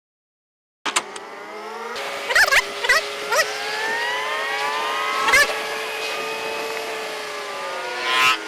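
A motor vehicle engine runs steadily, its pitch rising slowly and then levelling off, starting suddenly about a second in. Several sharp clicks or knocks sound on top of it, a cluster near the start and single ones in the middle and near the end.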